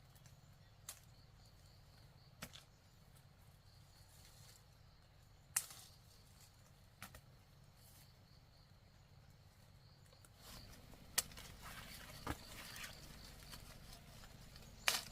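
Occasional single sharp knocks or taps, one every second or two, over a quiet outdoor background that grows a little louder about ten seconds in.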